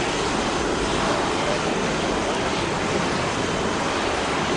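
Airliner jet engines running as a steady, loud, even rush of noise, with no pauses or changes.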